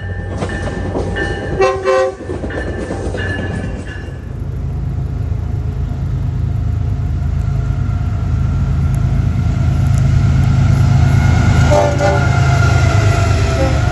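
Florida East Coast freight train's diesel locomotive horn sounding a chord for the first few seconds, with a short, loudest blast about two seconds in. Then the lead locomotives' deep engine rumble builds as the train passes.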